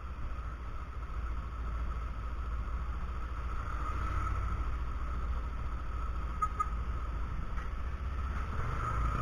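Steady, muffled low rumble of a motorcycle running, picked up by a cheap action camera's microphone, with a thin steady whine over it.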